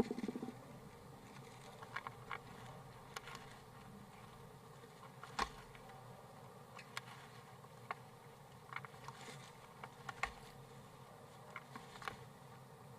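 Faint, scattered sharp taps and clicks, irregular and about one every second or two, over a low steady hum and hiss inside a wooden nest box.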